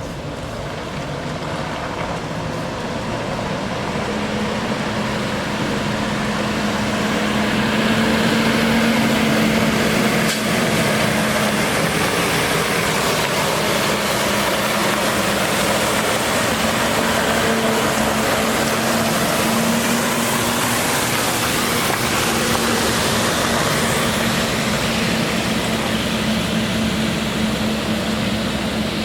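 The Ford F750 water truck's Cummins 6.7L diesel running under load, with a held steady hum and a broad, even hiss. The sound builds over the first several seconds and then holds steady.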